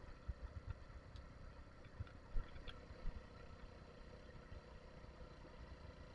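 Little Cub motorcycle's Chinese-made small single-cylinder engine running steadily, with wind buffeting the microphone and a couple of knocks about two and a half and three seconds in.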